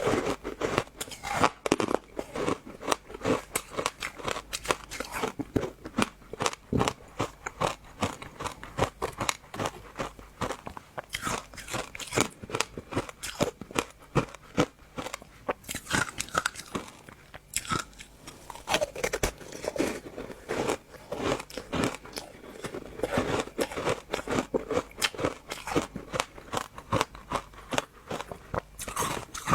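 Close-up crunchy biting and chewing of passion fruit, the seeds cracking in a dense, irregular run of crisp crunches several times a second.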